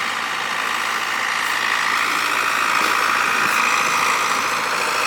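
A vehicle engine running steadily at idle, with a constant low hum underneath.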